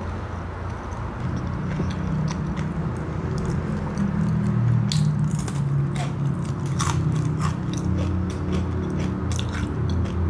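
A person chewing and biting crispy fried snacks (gorengan), with sharp crunches scattered throughout.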